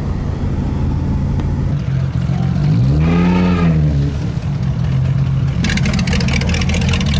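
Car engine running steadily, revving up and back down once about three seconds in. A steady hiss joins in from about five and a half seconds.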